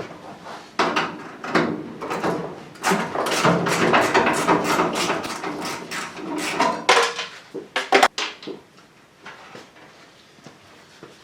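Irregular metallic clanks, knocks and scrapes of hands and tools working on a car's body panels and engine bay in a small garage. The clatter is busy for the first seven seconds, then come a few sharp clicks about eight seconds in, and it turns quieter.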